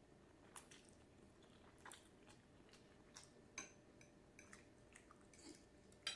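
Faint chewing and mouth smacks over a mouthful of lo mein noodles, with a scatter of short soft clicks, the loudest near the end.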